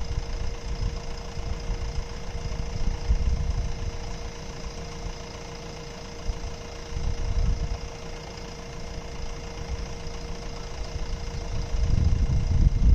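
Diesel engine of a JCB earthmoving machine running near idle, with a constant hum over a low rumble that swells a few times and grows louder near the end.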